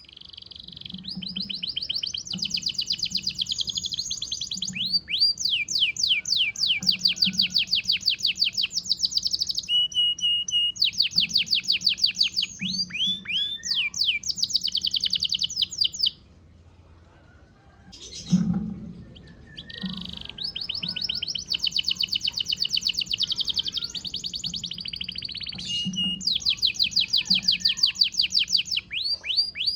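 Domestic canary in moult, singing: long, fast, high trills and rolling phrases. The song stops for about two seconds midway, a single knock follows, and then the song starts again.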